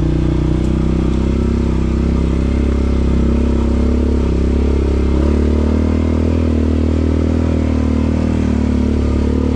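Quad bike (ATV) engine running steadily while the quad is ridden along the trail.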